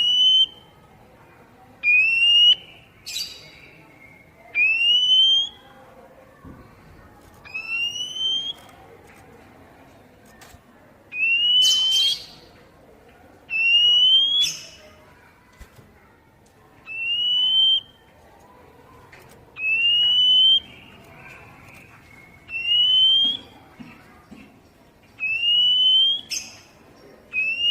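Oriental magpie-robin (kacer) giving a rising whistled call over and over, about one every two and a half to three seconds. Several of the calls end in a short harsh chip. This is the basic 'poci' call, played to stimulate wild-caught birds to sing.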